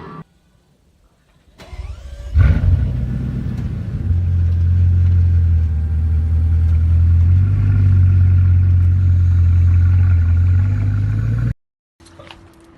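Car engine cold start: a brief crank, then the engine catches with a loud flare of revs and settles into a steady idle, which cuts off suddenly near the end.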